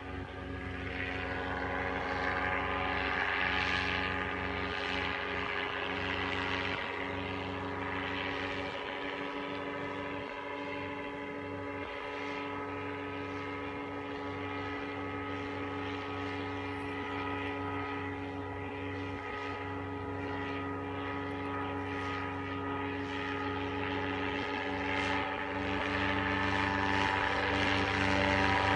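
Small propeller aircraft's piston engine running steadily at constant speed, getting a little louder near the end.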